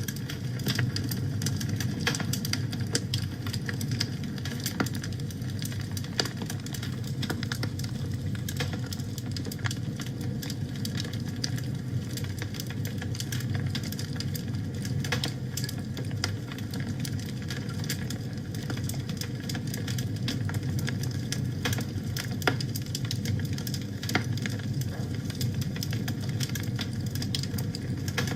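Wood fire burning in a fireplace: a steady low rumble of flame with frequent irregular crackles and pops.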